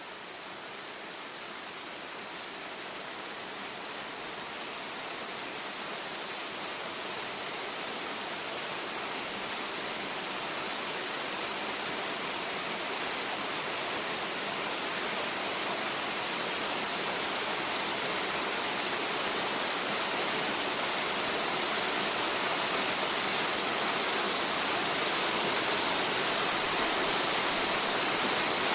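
Waterfall: the steady rush of falling water, growing gradually louder throughout.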